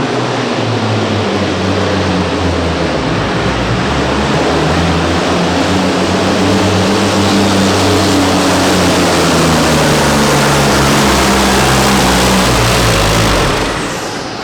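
Big diesel truck engine running hard under heavy load during a pull, with loud rushing turbo and exhaust noise. The engine note shifts in steps, then falls away near the end.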